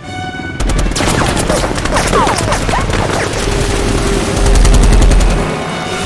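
Rapid, sustained automatic gunfire, a film battle soundtrack, starting about half a second in after a brief steady tone. A deep rumble swells under it near the middle and is the loudest part.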